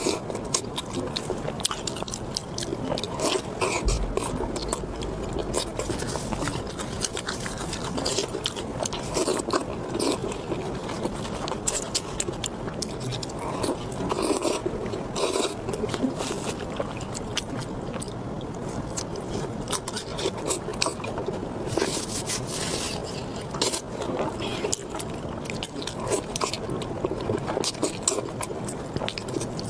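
Close-miked eating sounds: a person biting and chewing food, with many short crisp clicks and wet smacks throughout.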